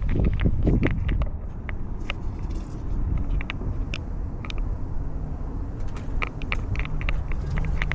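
Scratchy rustling, irregular clicks and a low rumble from a cat's collar-mounted camera rubbing and knocking as the cat moves. The rustling is loudest in the first second, then eases to the low rumble with scattered clicks.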